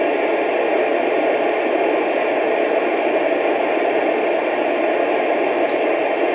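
Steady, loud hiss of static, narrow like a phone or radio line and without change throughout.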